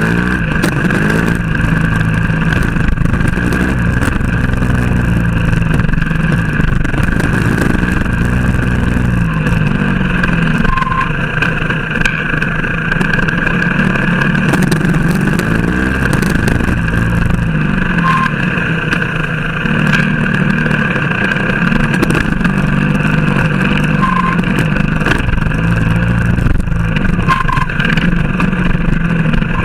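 Trail motorcycle engine running under load, its revs climbing and dropping again and again as it accelerates and shifts gear.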